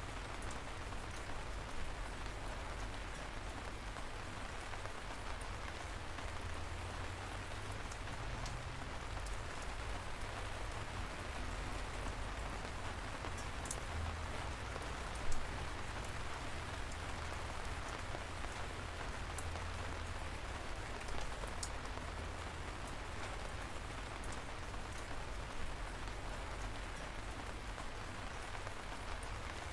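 Steady light rain falling, with occasional sharper single drops ticking above the patter; one is louder, about halfway through.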